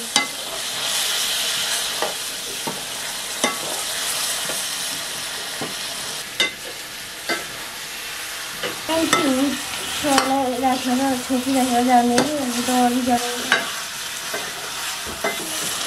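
Pork and potato pieces sizzling as they fry in oil in a metal karahi, stirred with a steel ladle that clicks and scrapes against the pan now and then. About nine seconds in, a wavering pitched sound with overtones joins for about four seconds.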